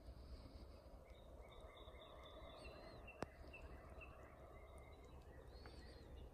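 Faint birds chirping, short high notes repeated through the middle, over a low steady rumble. There is one sharp click a little past halfway.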